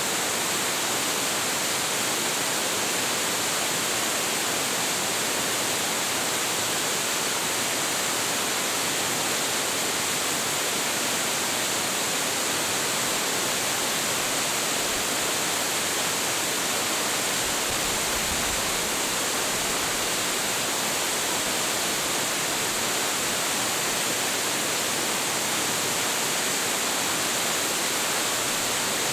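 Waterfall with a large flow of water falling and splashing, a steady full rushing hiss without a break.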